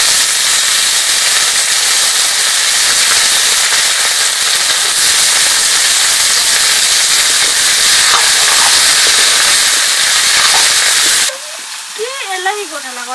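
Food sizzling loudly in hot oil in a cooking pan, a steady hiss that starts suddenly and cuts off abruptly about eleven seconds in.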